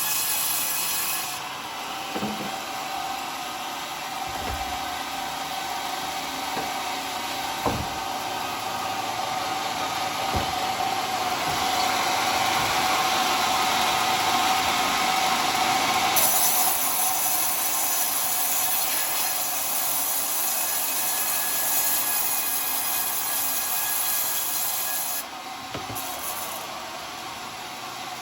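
Homemade sawmill's circular saw blade cutting through a coconut-palm log: a steady ringing cut that grows louder towards the middle and eases near the end, with a few short knocks.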